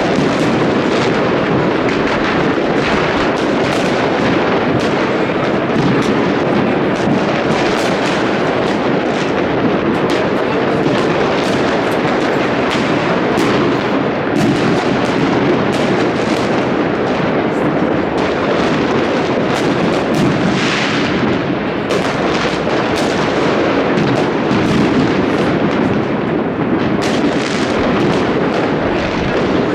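Fireworks going off continuously: a dense, unbroken run of overlapping bangs and crackles from many shells at once.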